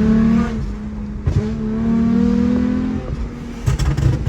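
Toyota 2GR-FSE 3.5-litre V6 with a stainless valvetronic exhaust accelerating hard, its pitch climbing through a gear, breaking at a shift about half a second in, then climbing again through the next gear. The throttle closes about three seconds in, followed by a quick run of sharp exhaust cracks.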